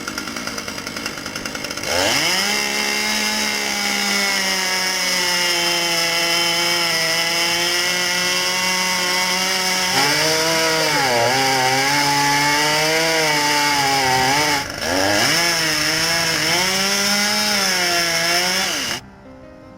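Chainsaw revved to full throttle about two seconds in. From about ten seconds in, its pitch sags and recovers as the chain bogs down cutting wood. It eases off briefly near fifteen seconds, revs up again, and cuts off just before the end.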